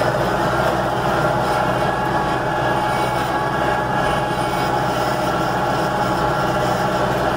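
Steady engine and running noise heard from inside a vehicle's cab as it drives, an unbroken hum with no change in pace.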